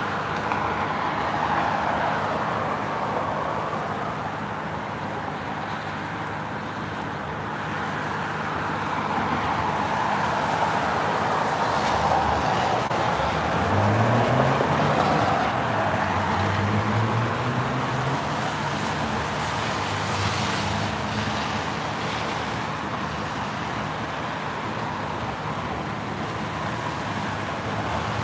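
Road traffic noise: steady tyre hiss from passing cars, swelling and fading. About halfway through, an engine accelerates, rising in pitch in steps.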